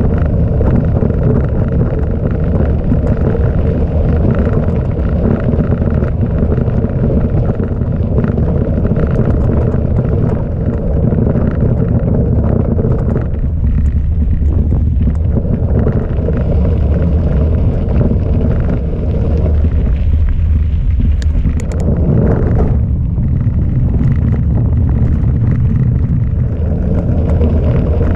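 Heavy wind buffeting on the microphone, with the low rumble of mountain-bike tyres on a gravel track.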